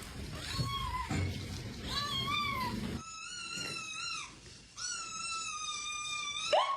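A cat meowing: two short, arching meows, then two long drawn-out level meows, and a quick rising meow at the very end.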